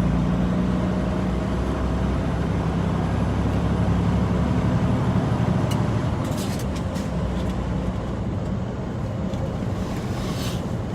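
Semi-truck cruising on the highway, heard from inside the cab: the diesel engine's steady low drone under road and tyre noise, with a few short clicks or rattles about six and ten seconds in.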